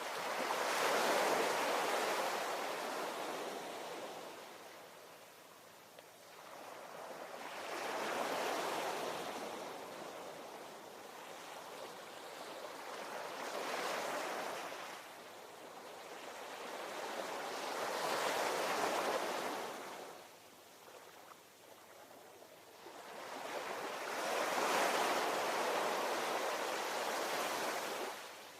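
Ocean waves breaking in five surges, one about every five to six seconds, each swelling up and falling away.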